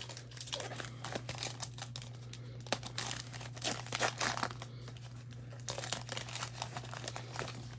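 Wrapper of a Panini Elite football card pack being torn open and crinkled by hand, irregular crackles and rustles, with a steady low electrical hum underneath.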